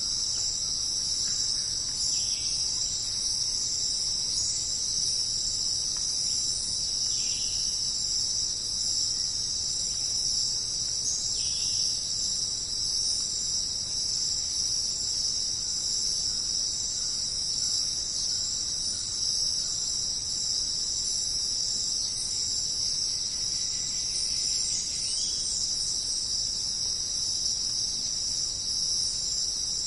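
Steady chorus of crickets, a continuous high trill without pause, with a few brief faint bird calls now and then.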